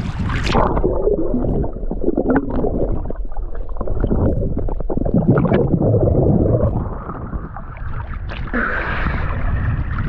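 Muffled gurgling and sloshing of seawater heard with the camera underwater, dull and low with scattered knocks. Some brighter splashing comes back near the end.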